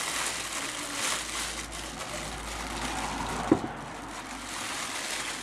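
Rustling and handling noise from unpacking a 3D printer and its packaging, with one short knock about three and a half seconds in.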